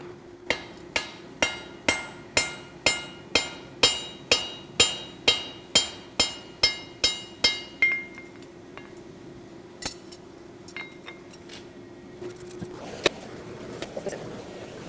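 Hand hammer striking hot steel cable on an anvil, forge-welding the strands together: about seventeen ringing blows, roughly two a second, stopping about eight seconds in, then a few lighter knocks. A steady low hum runs underneath.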